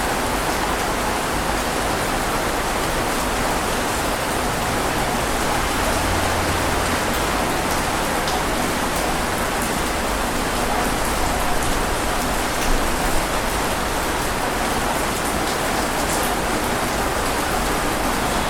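Steady, heavy rain falling and pattering on surfaces, with a few louder drop hits about two thirds of the way in.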